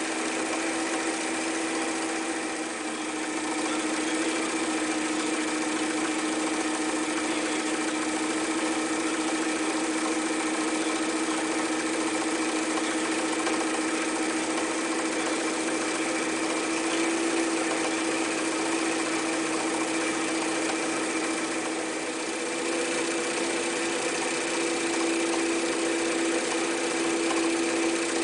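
Elna Special type 31C electric sewing machine running continuously at speed, its motor and needle mechanism giving a steady whirr. The pitch shifts slightly about two-thirds of the way through as the speed changes.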